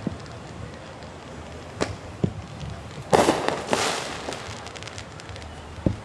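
Fireworks going off: single sharp bangs about two seconds in and near the end, and a louder burst around three seconds in that trails off in about a second of crackling.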